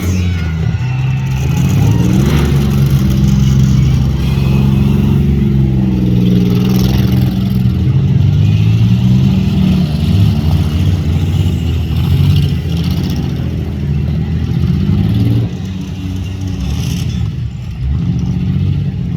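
Several demolition derby compact cars' engines running and revving at once, their pitches rising and falling over one another, with a couple of sharp bangs about two seconds in and near the end.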